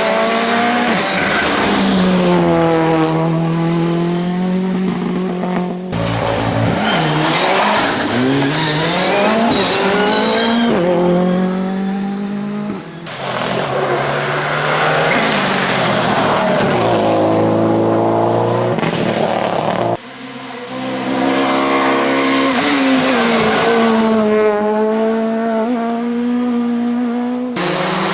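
Rally cars driven flat out on a stage, their engines revving high and dropping in pitch again and again through gear changes. The sound switches abruptly several times from one car or pass to another.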